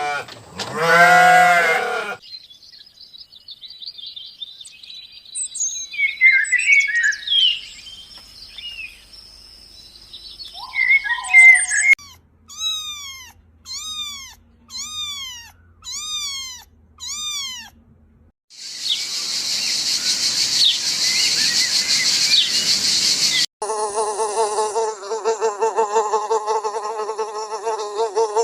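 A series of animal sounds. It opens with a sheep's bleat, then scattered bird chirps, then about six evenly spaced calls that each fall in pitch. Next comes a loud, steady high insect buzz for about five seconds, and it ends with a rapid pulsing, buzzing call.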